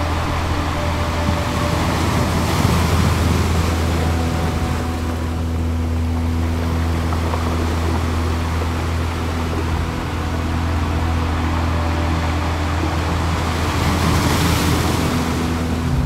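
Ocean surf washing onto the beach in small breaking waves, swelling about two seconds in and again near the end, over a steady low hum.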